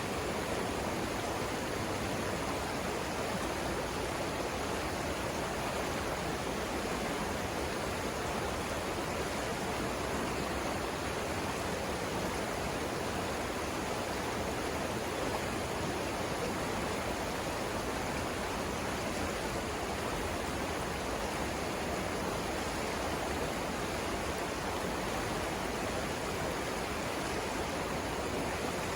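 River water rushing steadily over rapids, an even unbroken roar with no change in level.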